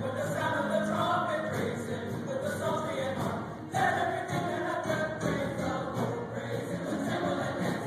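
A choir singing together, with a short break just before four seconds in and then a loud new phrase.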